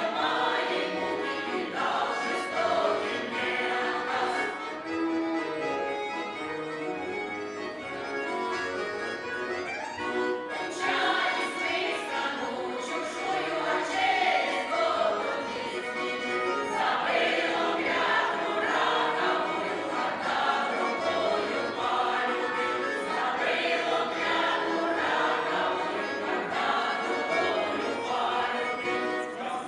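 Choral music: several voices singing together in sustained, flowing phrases.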